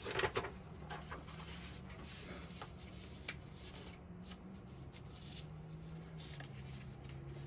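Faint rustling and light clicks of things being handled on a workbench, over a steady low hum.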